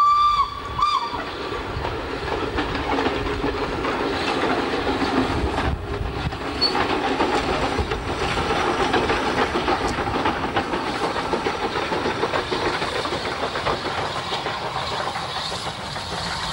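A train whistle blast ends just as it opens, with a second short toot about a second in. Then a short train, a railcar with a tank steam locomotive behind it, runs past with a steady rumble and clatter of wheels on rail.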